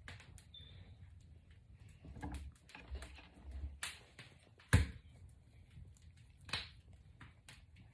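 Hands working box braids and synthetic braiding hair loose: scattered soft rustles and light clicks, with one sharp, louder knock just before the five-second mark.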